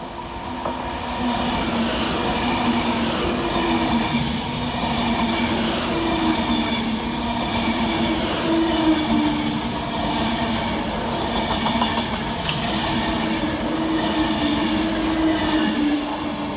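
Class 390 Pendolino electric train running through the station: a steady mix of wheel-on-rail noise and a hum with several held tones from the traction equipment, building over the first two seconds and then staying level.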